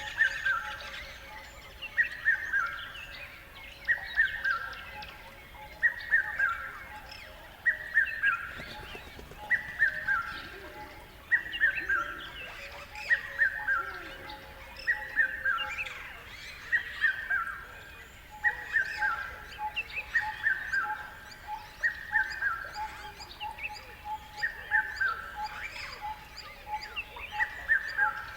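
Wild birds calling. One bird repeats a short phrase of notes stepping down in pitch about every two seconds, with other birds chirping around it.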